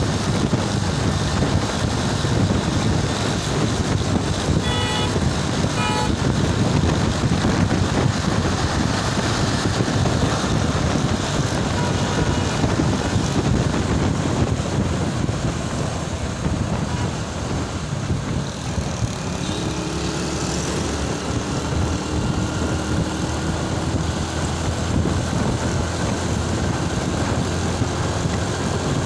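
Vehicle engine and road traffic noise while riding, with two short horn toots about five and six seconds in.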